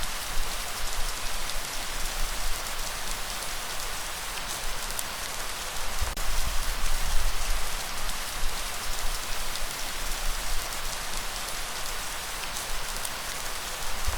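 Steady rain falling, a dense hiss of many drops, with a deep low rumble underneath that swells a few times.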